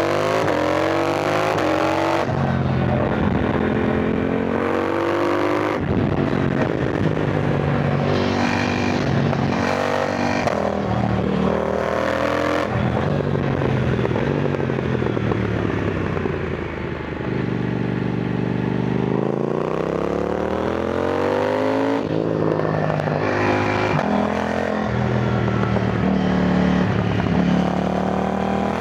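KTM 990 Duke motorcycle engine under way, its note climbing in pitch under throttle and dropping off again and again. Near the middle it falls off for a few seconds and then climbs back up.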